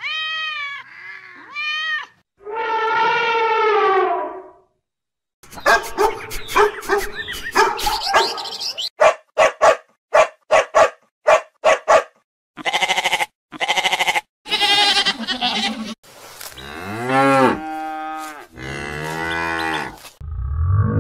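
A run of animal calls one after another: cat meows at the start, a quick series of short dog barks in the middle, and cattle mooing toward the end.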